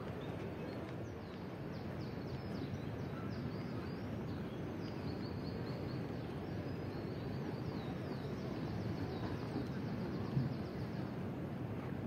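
Outdoor ambience with a steady low wash of distant noise, and a small bird singing quick, high chirps and trills through most of it. A single short knock comes near the end.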